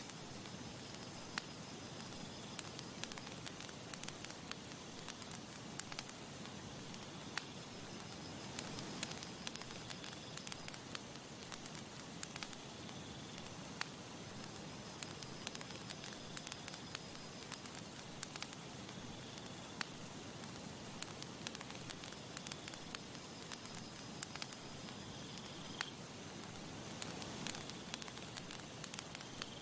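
Campfire crackling and popping with irregular sharp snaps over a steady hiss.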